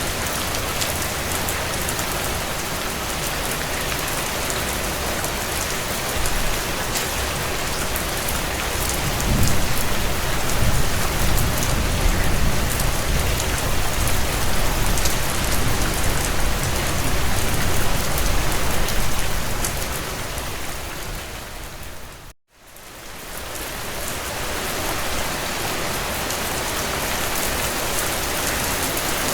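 Heavy rain drumming steadily on a tin roof, with a deeper low rumble building in the middle. About 22 seconds in the rain fades out to a moment of silence and then swells back in.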